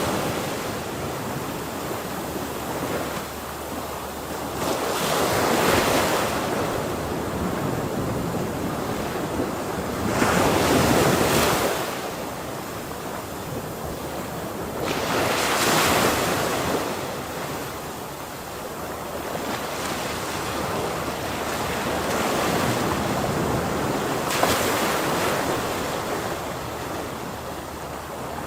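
Ocean waves breaking on a shore, each wave a swell of surf that rises and falls every few seconds, with loudest surges around a third, half and near the end of the stretch. Wind noise on the microphone runs underneath.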